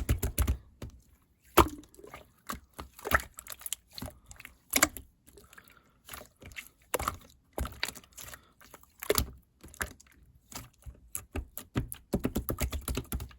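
Keyboard keystrokes: quick runs of typing with a deep thump to each stroke at the start and again near the end, and single key presses scattered in between.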